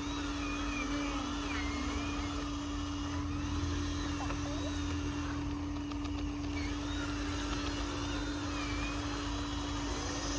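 Steady hum of a handmade RC truck's small motor, holding one pitch, with a low rumble beneath it.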